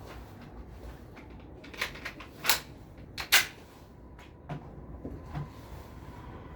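A quick series of sharp mechanical clicks and clacks from a handgun and its Roni carbine kit being handled, the two loudest about two and a half and three and a half seconds in, followed by two softer knocks.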